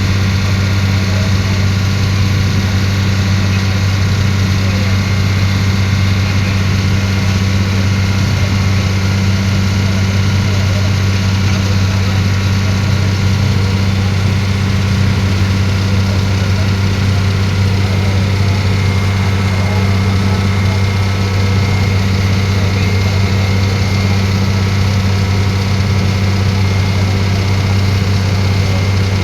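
Passenger ferry's engine running with a steady low drone, unchanging throughout.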